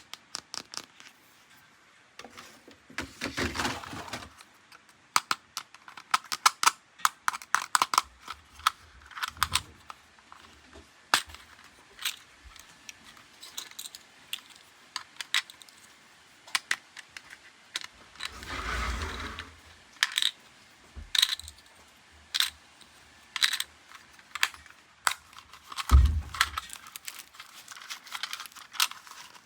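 Hard plastic toy parts and packaging handled during unboxing: a string of sharp clicks and taps, two longer rustling passes, and one low thump late on.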